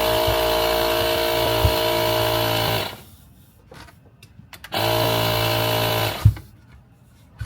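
Compressed air from an air-compressor blow gun hissing and whistling as it is blown into a golf grip to slide it onto the club shaft, in two bursts that start and stop sharply: the first ends about three seconds in, the second lasts about a second and a half. A sharp knock follows the second burst.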